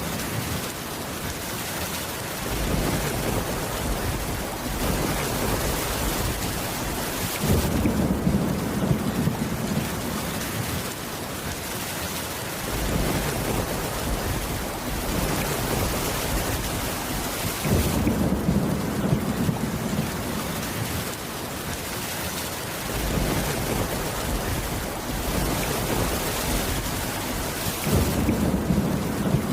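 Steady heavy rain, with low rolls of thunder swelling and fading about every five seconds.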